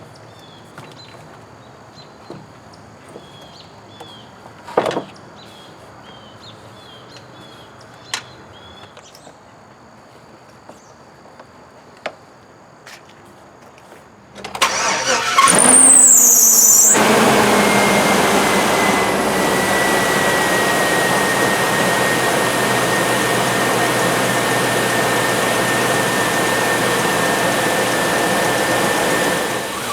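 Scattered clicks and knocks of hand work under the hood, then about halfway through the freshly swapped-in engine of a 2004 Cadillac Escalade is cranked and catches. It settles into a steady idle with a steady whine, running a little uneven, which the owner puts down to an oxygen sensor that is probably not plugged in.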